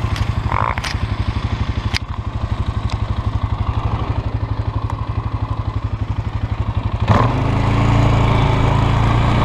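Polaris Sportsman 500 H.O. ATV's single-cylinder four-stroke engine running at low speed with an even chugging beat, a couple of knocks and clatters in the first two seconds. About seven seconds in the throttle opens and the engine gets louder and smoother.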